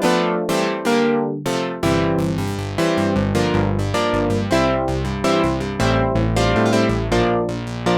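Sequential Circuits Prophet-5 Rev 2 analog polyphonic synthesizer played with a bright, plucked, piano-like patch: a run of chords with quick attacks that die away, a bass part joining about two seconds in.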